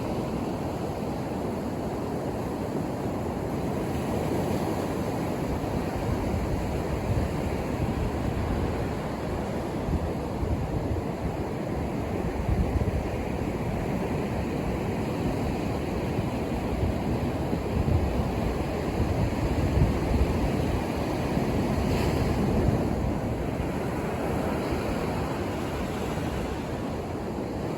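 Ocean surf breaking and washing up a beach: a steady rush of water noise, low and full, that swells louder a few times as larger waves come in, strongest past the middle.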